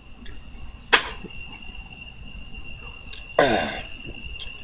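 Crickets chirping, a single steady high trill without a break. About a second in there is a sharp click, and a little after three seconds a short rushing burst of noise.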